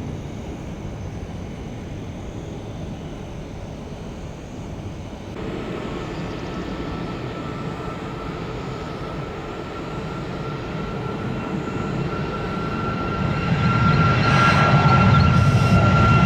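Jet airliner engines running, a low rumble with a steady high whine that grows much louder over the last few seconds.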